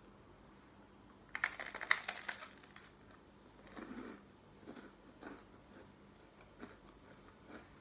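Close crinkling and crunching, loudest in a short cluster about a second and a half in, followed by softer scattered rustles and taps.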